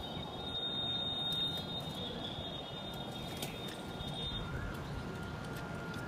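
Outdoor background with birds calling, over a steady high-pitched whine that stops about four and a half seconds in.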